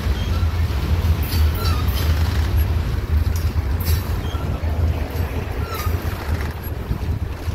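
Covered hopper cars of a freight train rolling past close by: a steady low rumble of steel wheels on rail, with scattered clicks and short faint squeaks.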